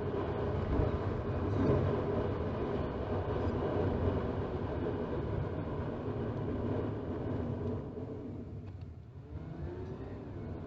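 Road and engine noise of a car in motion, heard from inside the cabin through the dash camera's built-in microphone: a steady low rumble that eases a little near the end.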